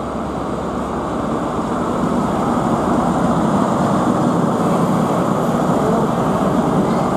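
Intercity 125 High Speed Train passing close by, led by its Class 43 diesel power car: a steady, loud rumble of engine and wheels on rail that builds over the first two seconds as the power car draws level.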